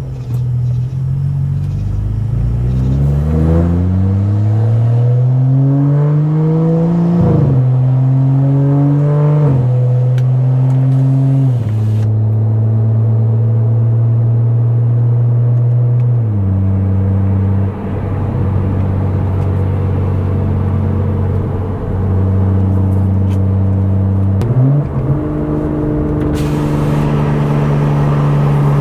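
Stage 2+ tuned BMW F10 535i's turbocharged inline-six with a loud exhaust, accelerating hard with rising revs and quick upshifts at about 7, 9 and 11 seconds in. It then holds steady engine speeds, dropping to a lower steady note around the middle and rising again near the end.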